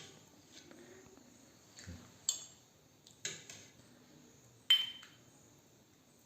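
Dishes and cutlery clinking: a handful of separate sharp clinks and knocks spread out over a few seconds, the loudest about four and a half seconds in with a short ringing tone.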